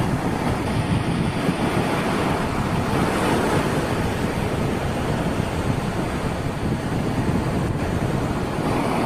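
Strong wind buffeting the microphone over surf breaking on a beach: a steady, loud rushing noise with heavy low rumble.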